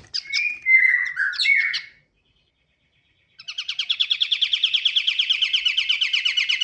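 White-shouldered triller (kapasan kemiri) singing: a quick run of varied chirps and whistled notes, then, after a short pause, a fast, even trill of rapidly repeated notes.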